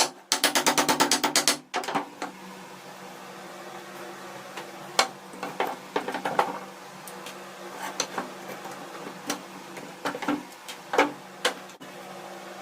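A mechanism ratcheting in a fast, even run of clicks, about nine a second, that stops at about two seconds in. Scattered light clicks and taps follow, over a steady low hum.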